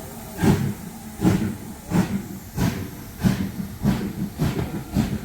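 Steam locomotive, the LMS Black 5 4-6-0 No 45212, exhausting in regular chuffs while pulling away. About eight beats come closer together as it gathers speed.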